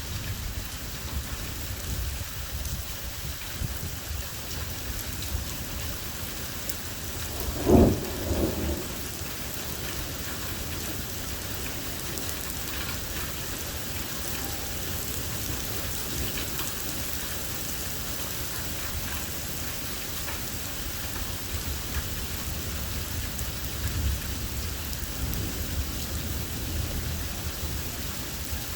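Thunderstorm with steady heavy rain falling on surfaces. A loud clap of thunder comes about eight seconds in, with lower rumbles later.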